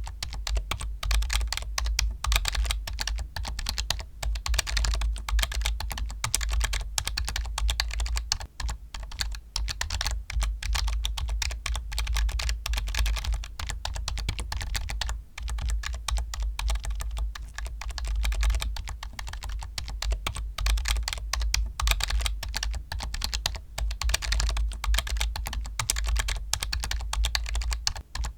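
Computer keyboard being typed on steadily and fast, a dense, unbroken run of key clicks.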